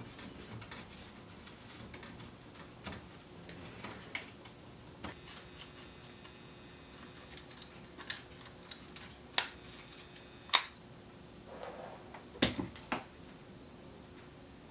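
Scattered small clicks and taps of hand tools on an old wire recorder's chassis while parts are being unsoldered, with the sharpest clicks in the second half and a pair near the end, over a faint steady hum.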